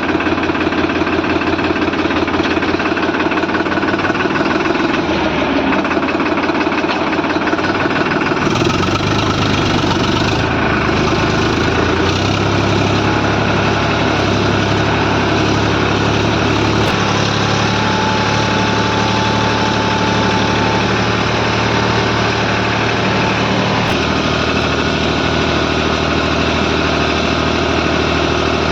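Heavy diesel engine of a working machine running steadily under varying load, its low hum shifting pitch several times, about 8, 12, 17 and 24 seconds in.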